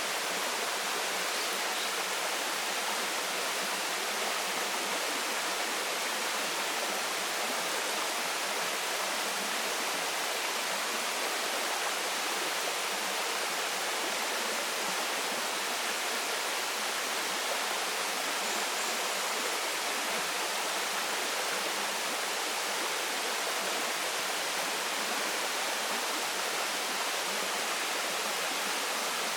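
Waterfall splashing steadily, an even rush of falling water with no change.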